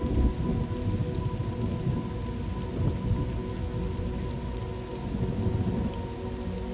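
Thunderstorm ambience: steady rain with low, rolling thunder rumbling underneath, strongest in the first moments. Faint steady tones sit beneath it.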